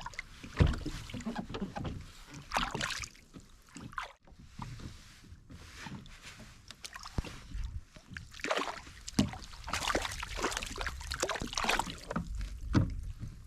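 Water lapping and splashing against a fishing kayak's hull, with irregular small splashes and light knocks.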